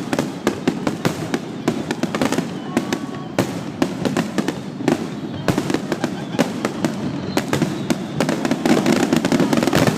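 Aerial fireworks display: many sharp bangs and crackles in quick succession, growing denser and louder near the end.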